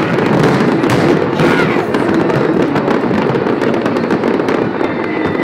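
Fireworks finale: a dense, continuous barrage of bangs and crackling from many shells bursting in quick succession.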